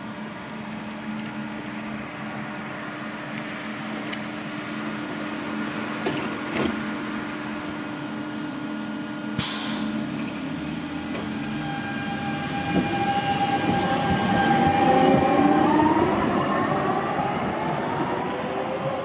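Tram standing with a steady electrical hum, a short sharp hiss about halfway through, then the whine of its traction motors rising in pitch as it accelerates away.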